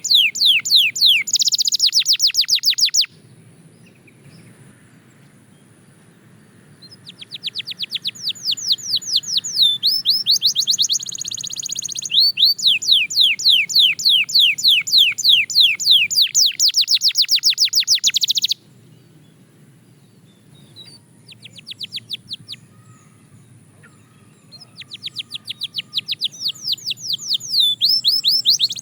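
Belgian canary singing in fast trills of rapidly repeated, falling notes, in long phrases broken by pauses of a few seconds.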